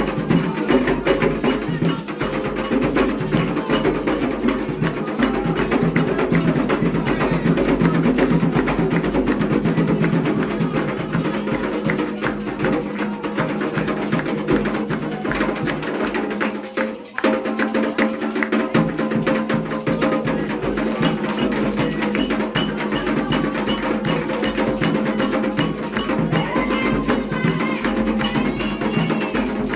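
Candomblé ritual drumming: hand drums with a sharp clacking time-keeper playing a dense, steady rhythm. The rhythm drops out briefly a little past halfway, then picks up again.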